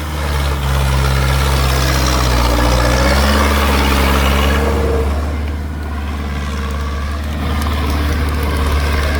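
Tractor engine running steadily, its note rising slightly about halfway through.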